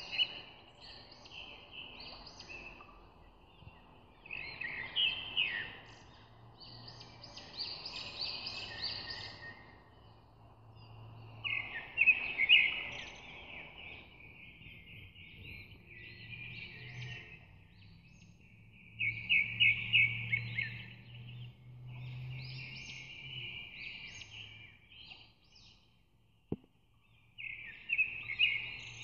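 Birds singing: short chirping, trilled phrases a second or two long, repeating every few seconds, over a faint low hum.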